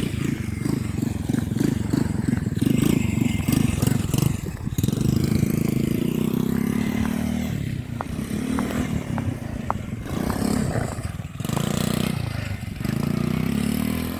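Small engine of an RC quad bike running as it drives about, its pitch and loudness rising and falling with the throttle. A few light clicks come about eight to ten seconds in.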